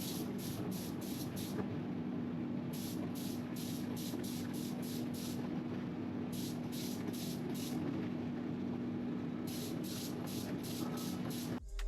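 Paint spray gun spraying primer in short hissing bursts, several a second, in four runs with pauses between, over a steady low hum.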